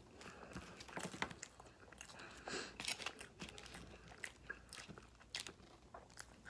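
A person chewing and crunching fast food close to the microphone, with irregular crisp crunches and bites, a few of them louder.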